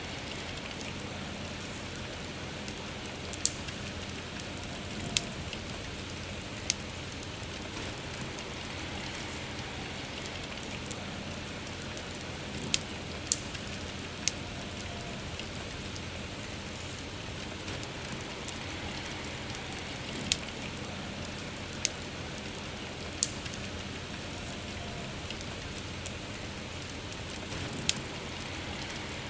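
Steady soft rain with a campfire crackling over it: sharp single pops come at irregular moments every second or two.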